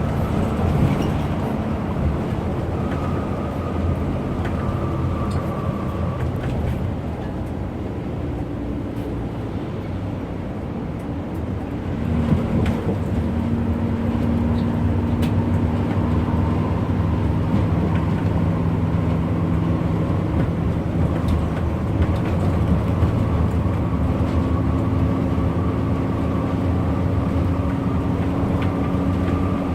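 Bus engine and road noise while driving, a steady drone. It dips a little, then swells louder about twelve seconds in as the engine pulls harder.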